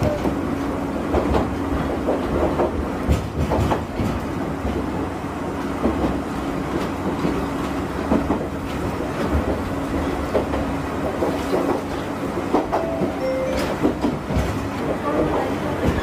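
Choshi Electric Railway 2000-series electric train running, heard from inside the car: a steady running hum with a held low tone, and wheels clicking over rail joints at irregular intervals.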